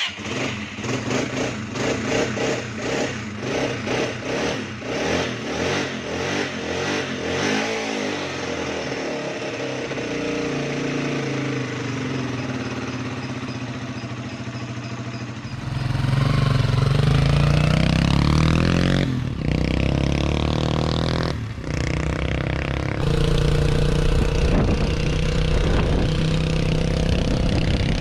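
Yamaha Serow 225's single-cylinder four-stroke engine running after its restoration, pulsing unevenly at first and then smoothing out. About halfway through it revs up louder with a rising pitch, drops out briefly twice, and then holds a steadier, higher note.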